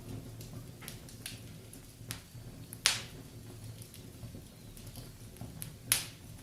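Wood fire in a fireplace crackling: scattered small clicks, with two loud pops about three seconds apart.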